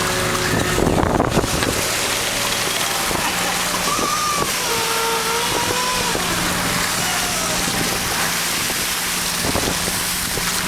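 Fishing boat running at sea: a steady engine hum under a constant wash of wind and water noise, with some wavering higher-pitched whines in the middle.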